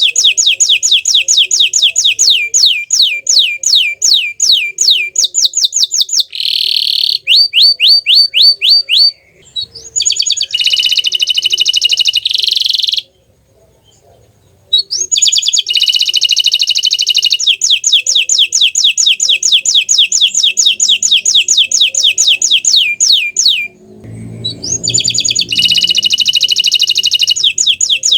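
Green domestic canary singing: long, fast trills of repeated high, downward-sweeping notes, with a pause of about a second and a half midway.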